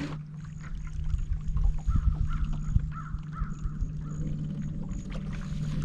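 A bird calling several times in a row, harsh calls about two to three and a half seconds in, over a steady low hum.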